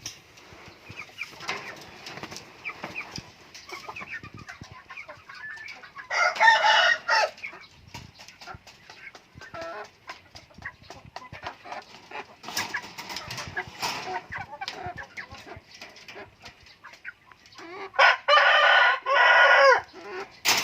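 Chickens clucking, with a rooster crowing loudly twice: once about six seconds in and again near the end.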